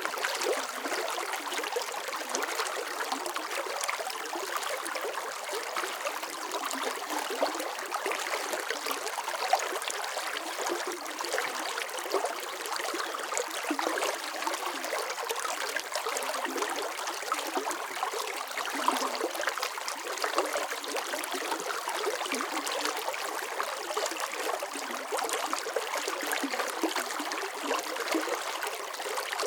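Running water flowing steadily, like a stream or brook, with a constant splashing, trickling texture.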